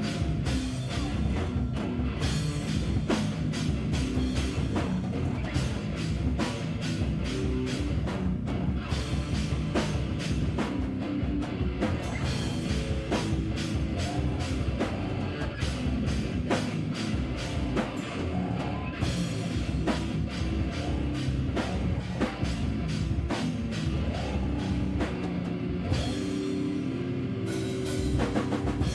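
A live band playing loud, heavy rock, with a drum kit hit in a rapid steady beat over low notes that step in pitch.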